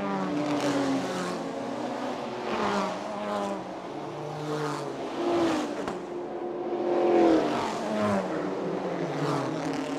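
Several GT race car engines running past one after another at safety-car pace. Their engine notes overlap and rise and fall as each car goes by.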